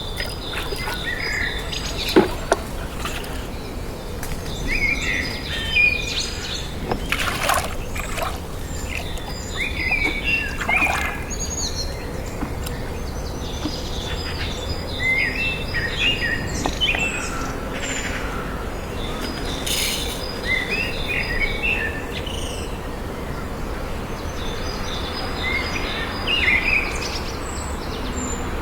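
Birds chirping and calling in clusters of short, high chirps over a steady low background noise.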